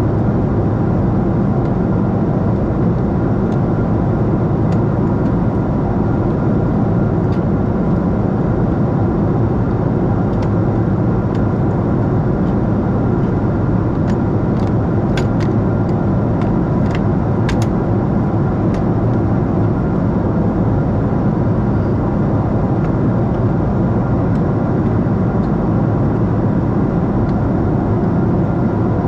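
Steady cabin noise of a Lufthansa Boeing 747-8 under way: an even drone of engines and airflow, with a few faint clicks about halfway through.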